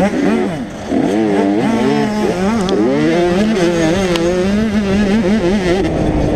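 Two-stroke 85cc motocross bikes revving on the track, their pitch rising and falling again and again as the throttle is worked, over a steadier engine drone.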